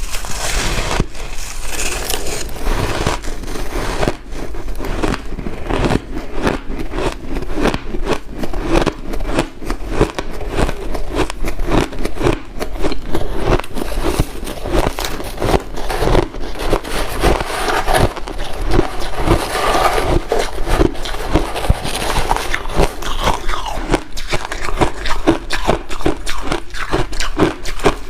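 A person biting and crunching white ice, a dense, unbroken run of crisp cracks and crunches with some scraping mixed in.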